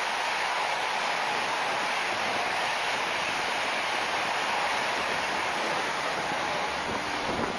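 Express passenger train passing through a station at high speed, close by: a loud, steady rush of wheels on rails and displaced air.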